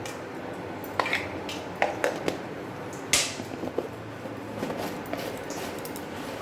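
Kitchen utensils clinking and tapping against a cooking pan and spice containers while whole spices are added: several sharp clinks, the loudest just after three seconds, over a steady low hiss.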